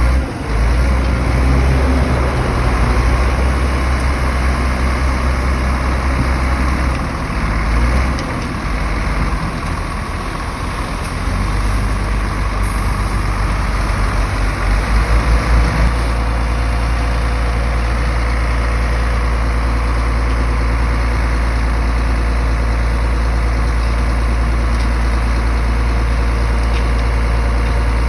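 Heavy diesel engine of an earthmoving machine running with a low, deep sound. The level eases off about a third of the way in and pulses a few times just past the middle, then holds steady through the second half.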